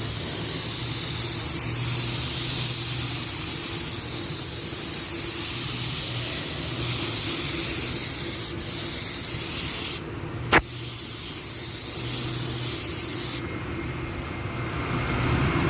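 Compressed-air paint spray gun at 2 bar spraying a car door panel: a steady hiss of air and atomised paint, cut briefly about ten seconds in with a click of the trigger, then resuming and stopping near the end.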